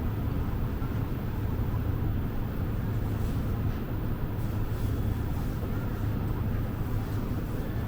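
Steady low rumble of city vehicle noise, with no distinct knocks or events.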